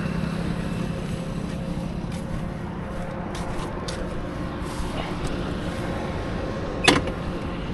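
Yamaha R3's 321 cc parallel-twin engine idling steadily, with no revving. A brief voice-like sound comes near the end.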